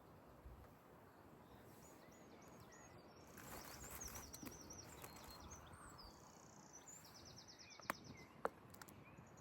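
Faint outdoor birdsong: series of short, high chirps and a quick trill over a quiet background, with two sharp clicks near the end.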